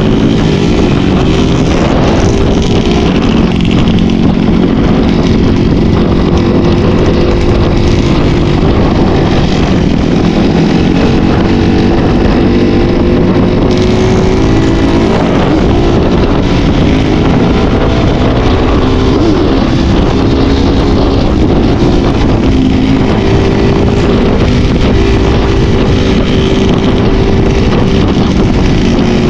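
Enduro dirt bike engine running hard on a trail, its pitch rising and falling as the throttle is worked.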